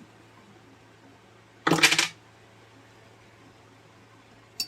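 A short metallic clatter about two seconds in, a hard object set down or dropped on the workbench, and a smaller double clatter at the very end, over a steady low hum.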